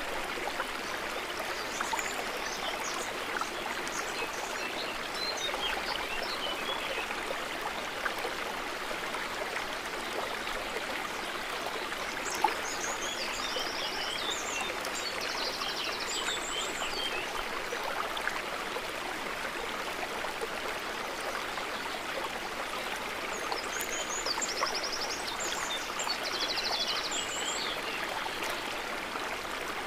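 Water trickling and babbling steadily, with three spells of high chirps and rapid trills over it, near the start, around the middle and near the end.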